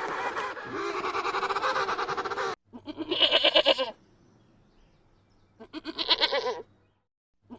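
A continuous, dense sound that cuts off abruptly about two and a half seconds in, followed by two separate animal calls with a wavering pitch, each about a second long.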